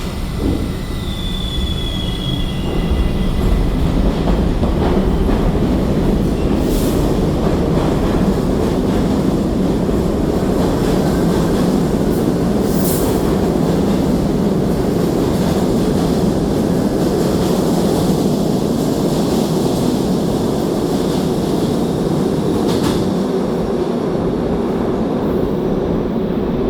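An R68A subway train departing the station and running past: a steady rumble of steel wheels on rail that builds over the first few seconds, then holds.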